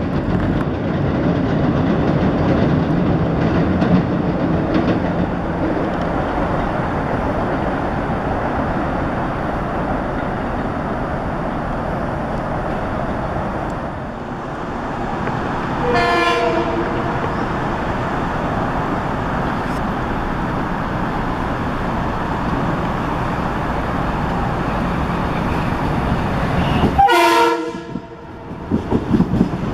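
Train noise rumbling steadily for the first half. Then a Metro-North commuter train sounds a short horn blast about halfway through and a longer, louder one near the end as it reaches the platform, and its wheels clatter over the rail joints at the very end.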